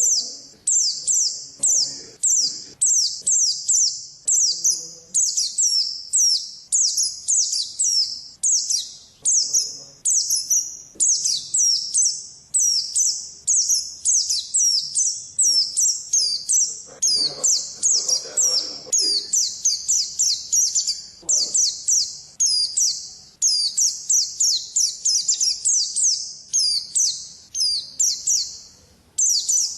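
White-eye (pleci, Zosterops) singing a long, rapid, nearly unbroken run of high chirping notes: the continuous 'ngalas' song.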